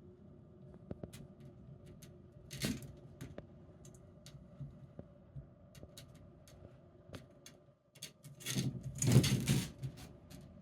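A calico kitten's claws catching and scrabbling as it climbs up a chair: scattered light ticks, a short scrape about a quarter of the way in, and a longer, louder scrabble near the end, over a faint steady room hum.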